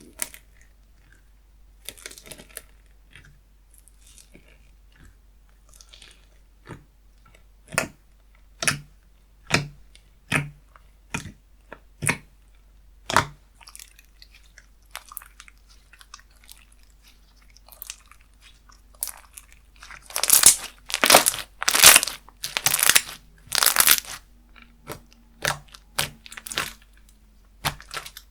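Slime being pressed and squeezed by hand, giving sharp clicking pops about one a second, then a run of louder crackly squishes about twenty seconds in.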